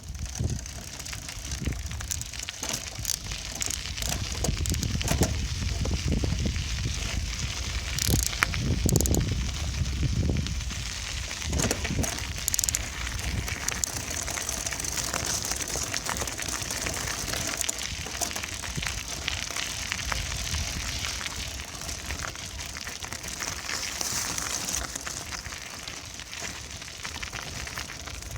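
Bicycle riding noise: tyres rolling over the ground with many small clicks and rattles, and a low rumble that swells and fades in the first half.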